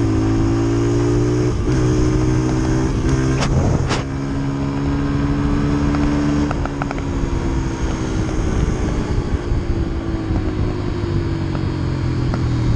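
Engine of a 140cc four-stroke dirt bike running under way. Its pitch holds fairly steady, then slowly falls over the second half as it eases off, with two sharp clicks a little over three seconds in.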